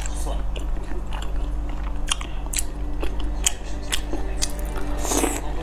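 Close-up wet chewing and mouth smacking of soft boiled dumplings in chili oil, with many short sharp clicks, over a steady low hum.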